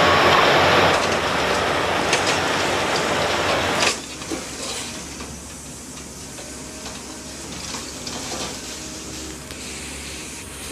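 Heavy machinery noise: a loud, steady rushing noise that cuts off abruptly about four seconds in. After it comes a quieter, steady low engine hum with scattered faint clicks.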